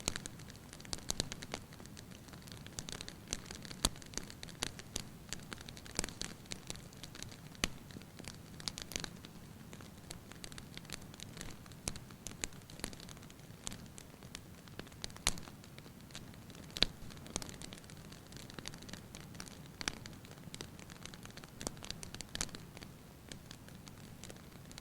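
Fire burning in a fireplace, crackling: irregular sharp pops and snaps, several a second at times, over a low steady rustle of the flames.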